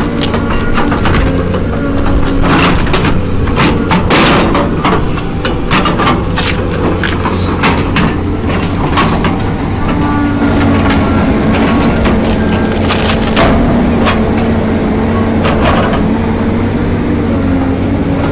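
A heavy machine's engine running steadily under the load of cutting wood, with wood cracking and splintering again and again. The engine's pitch drops slightly about ten seconds in.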